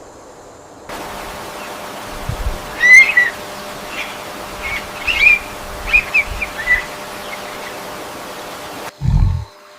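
Rainforest ambience: a steady hiss with birds chirping at intervals. Near the end comes a short, deep roar from a big cat.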